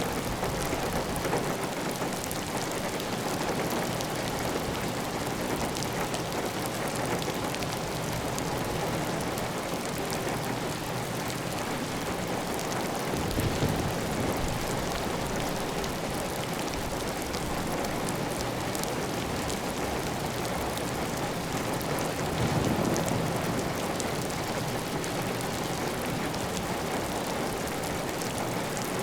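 Steady heavy rain pattering on a tiled roof, with water running off the roof edge. The rain swells slightly twice, about a third of the way in and again past the middle.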